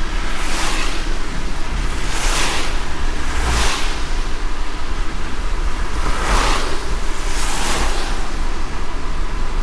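Steady road rumble and rain hiss heard from inside a car driving in light rain, with pairs of brief swishes about a second apart that come round every four seconds or so.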